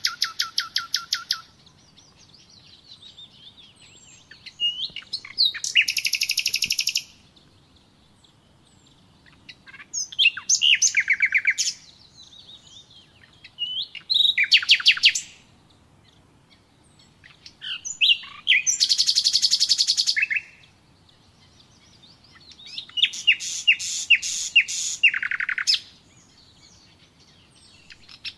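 A songbird singing in phrases of rapid, high-pitched repeated notes, each lasting one to two seconds, about six phrases with short pauses between them.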